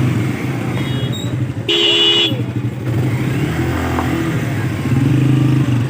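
Motorcycle engine running steadily while the bike is ridden, with a short beep about two seconds in.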